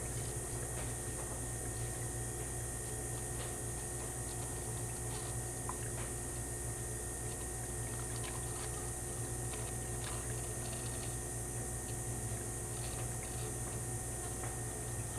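Synthetic 5W-20 motor oil being poured from quart bottles into the engine's oil filler to refill it after an oil change, over a steady background hum with a few faint ticks.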